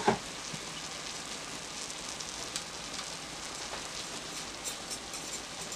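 Shredded cabbage sizzling steadily as it fries in oil in a pot, with a single short knock right at the start.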